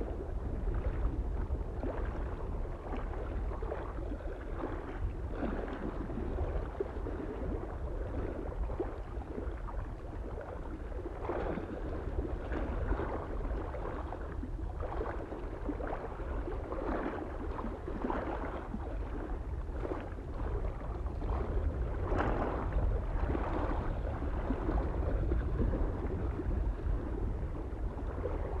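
Small waves lapping and splashing irregularly against a lake shore, over a steady low rumble of wind on the microphone.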